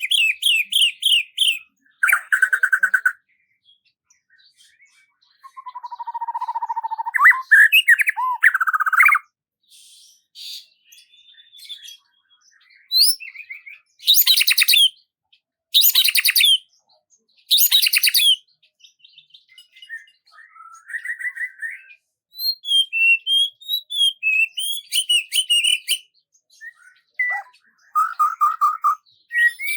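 Songbirds singing: a string of separate, varied song phrases with short silences between them, including three loud, similar phrases about two seconds apart midway.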